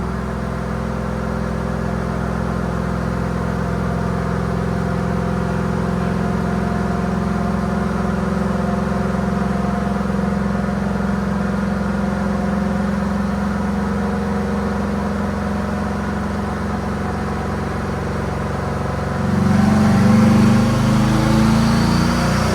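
GMC Sierra's 5.3 L V8 engine running steadily, then about 19 seconds in it gets louder as it revs, with a high whine rising in pitch.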